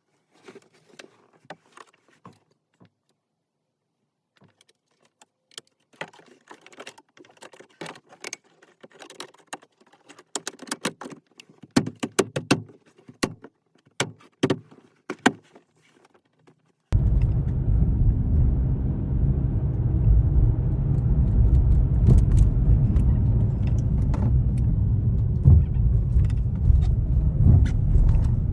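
Scattered light clicks and small plastic-and-metal knocks with quiet gaps between them. About seventeen seconds in, this gives way abruptly to the steady low rumble of a BMW F87 M2 driving, heard from inside the cabin.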